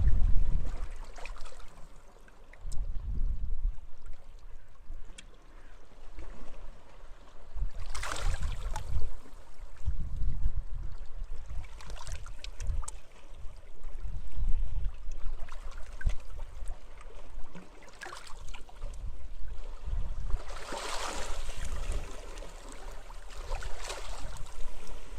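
Sea waves washing onto a beach, with wind gusting in deep, uneven surges. The biggest washes come about eight seconds in and again around twenty-one seconds.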